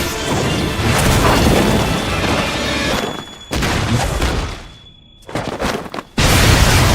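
Anime battle sound effects: heavy booming blasts and impacts over a music score. The sound fades to near silence about five seconds in, then a loud blast hits abruptly near the end.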